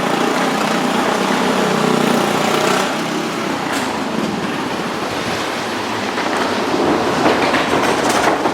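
Motorcycle engines running steadily as riders circle the Wall of Death, a loud, continuous drone.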